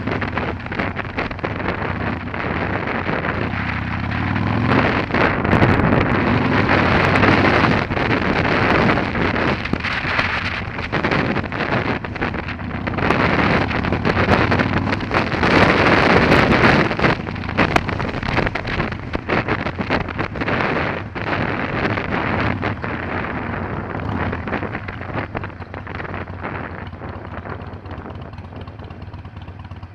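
Wind buffeting a motorcycle-mounted action camera's microphone while riding a Harley-Davidson Iron 883, with its V-twin engine running steadily underneath. The wind noise swells twice, then dies down near the end as the bike slows.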